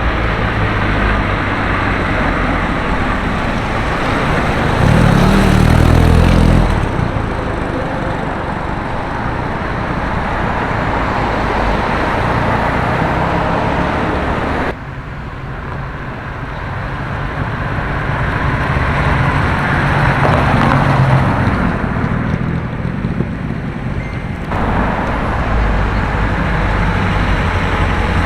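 Road traffic: cars driving past, with a steady roadway noise. A louder vehicle passes about five seconds in, and the sound changes abruptly a few times.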